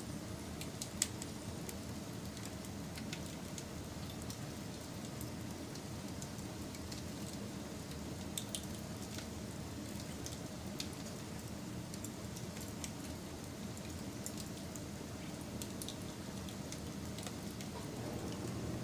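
Wood fire burning, with irregular sharp crackles and pops over a steady low rumble. The rumble grows a little louder near the end.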